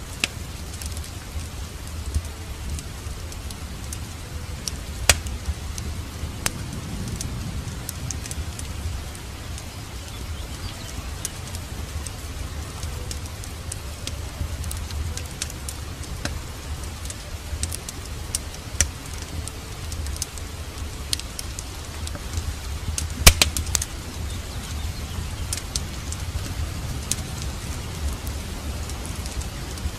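Steady rain mixed with a crackling fireplace fire: a continuous hiss with a low rumble, scattered wood crackles, and two sharper pops, about 5 seconds in and again about 23 seconds in.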